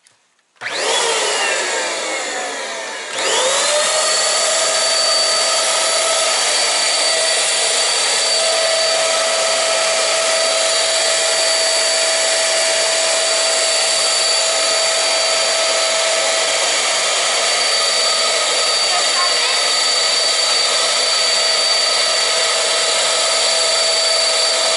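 Electric balloon pump running and blowing air with a steady whirring whine. Its motor pitch falls over the first few seconds, spins up again about three seconds in, and then holds steady.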